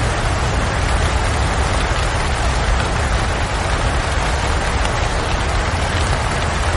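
Steady rain falling: an even, continuous hiss with a low rumble underneath.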